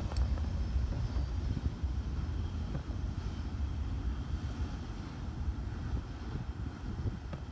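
Low rumble of a CSX freight train rolling by, slowly fading as it moves away.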